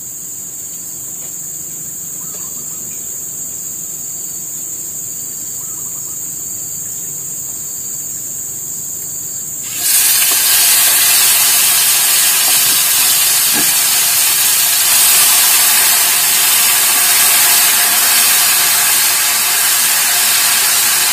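Steady high-pitched drone of crickets, then about halfway a loud sizzle starts abruptly as chopped chilies go into hot oil in a wok and keep frying.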